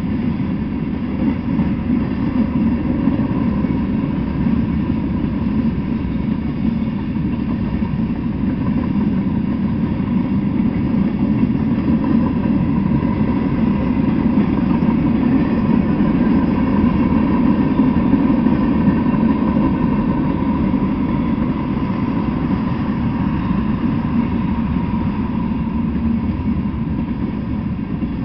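Freight train rolling past at speed: a steady, loud rumble of steel wheels on rail, with a faint steady high tone over it.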